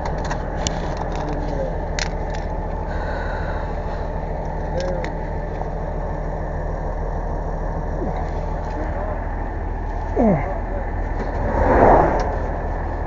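Vehicle engine idling steadily, with a few light clicks and a brief louder rush about twelve seconds in.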